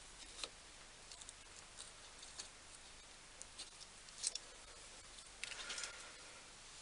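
Faint, scattered small clicks and light metallic handling of a measuring tool being set on a boring bar, with a short cluster of clicks and rubbing near the end.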